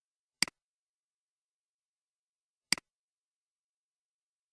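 Two computer mouse clicks about two seconds apart, each a sharp tick followed at once by a softer one, with dead silence between.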